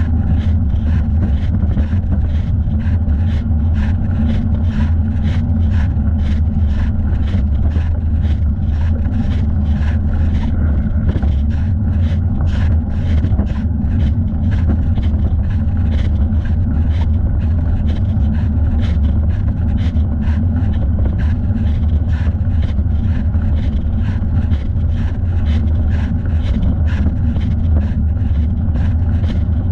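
Steady low rumble of wind buffeting a thigh-mounted camera's microphone while cycling, with a faint regular tick about twice a second.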